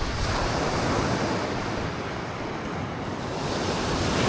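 Sea surf washing on the shore, with wind on the microphone. The rush eases off about halfway through and builds up again.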